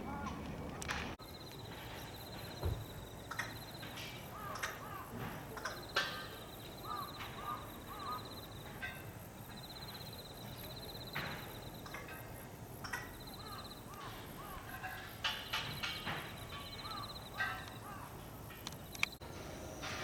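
Wild birds calling: a high, rapid trill repeated several times, each lasting a second or two, with short lower calls between them.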